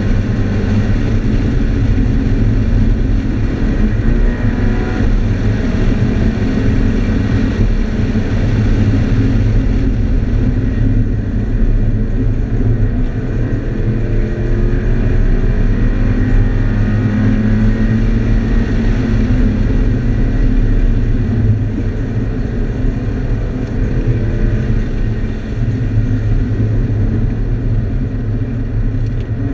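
Scion FR-S's flat-four engine, fitted with a drop-in intake filter, heard from inside the cabin at track pace. The engine note rises and falls as the car speeds up and eases off, over steady road and tyre noise.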